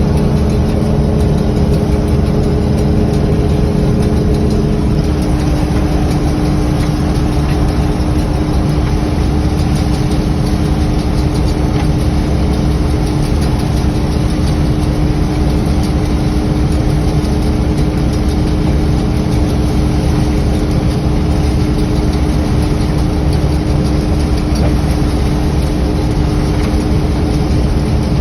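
Farm tractor engine running steadily at a constant speed, with a steady held tone over the low drone.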